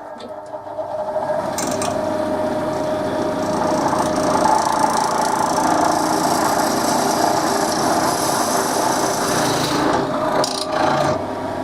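Wood lathe running while a hand-held drill bit bores into the end grain of the spinning cup blank: a steady scraping grind over the motor's hum. It builds over the first couple of seconds and eases off about ten seconds in, with a few short scrapes after.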